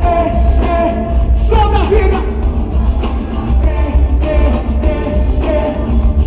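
Live band music with a singing voice over a strong, steady beat, recorded from within the congregation.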